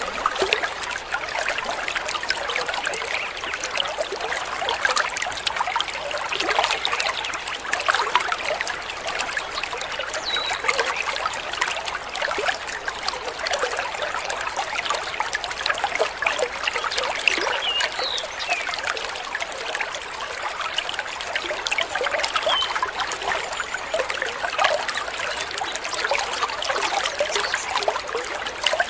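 Water of a small stream trickling and babbling steadily, with a few faint high bird chirps over it.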